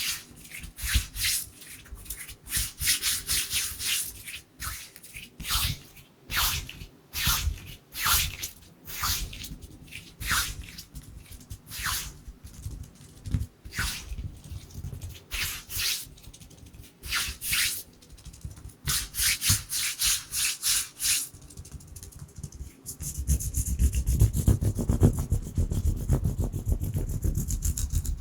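Dry bare hands rubbing together close to the microphone in a run of separate swishing strokes. Near the end the rubbing turns fast and continuous, with a heavier low rumble.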